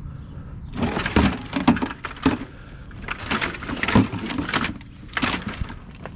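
Scrap metal clanking and rattling as it is handled and loaded, a quick run of knocks and clatters lasting about five seconds.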